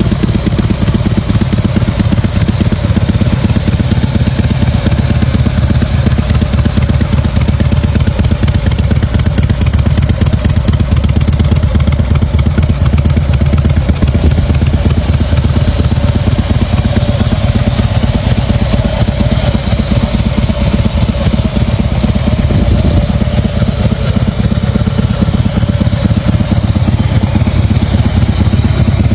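Harley-Davidson Breakout's air-cooled Twin Cam 103B V-twin running steadily at idle through a Vance & Hines aftermarket exhaust.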